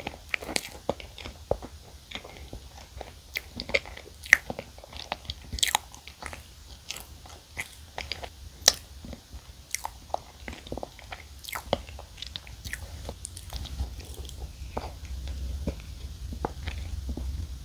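Close-miked chewing of a soft choco pie, a marshmallow-filled cake: a steady run of sharp, wet mouth clicks and smacks, several a second.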